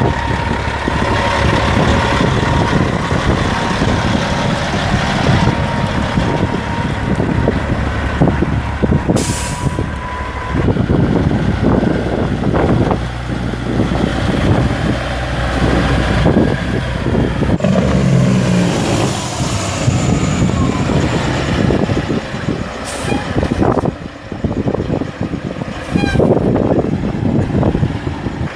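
Semi trucks' diesel engines running and pulling away, with a few short air-brake hisses about a third of the way in and again near the end.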